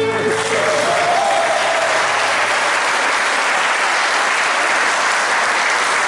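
Audience applauding as a live folk song with guitar ends, the last sustained notes fading out in the first two seconds.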